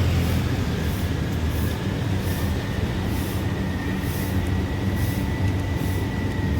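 Steady low engine rumble with a faint, thin high whine held over it.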